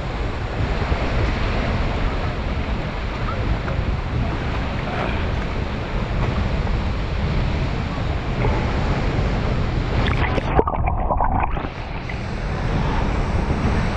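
La Fortuna waterfall's falling water, a steady roar. About ten seconds in it turns muffled for a second or two, then comes back.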